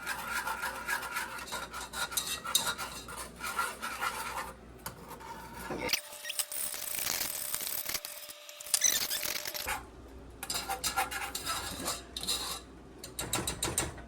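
A kitchen utensil scrapes and clinks against a pot in rapid repeated strokes. It is stirring milk and cream into a roux to work out the lumps.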